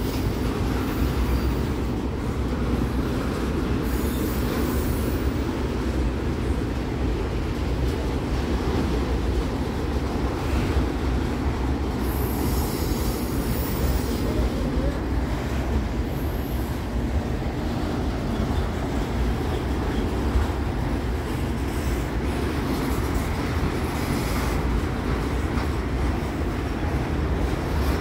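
Train rolling over a railway bridge overhead: a steady rumble of wheels and cars, with a few brief high-pitched wheel squeals, the longest a little before the middle.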